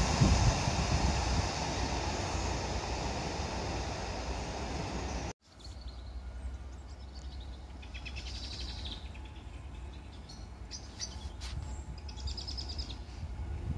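Diesel multiple unit train running along the line and fading as it moves away, a steady rumble with noise from the wheels. It cuts off suddenly about five seconds in, leaving quieter outdoor background with small birds chirping.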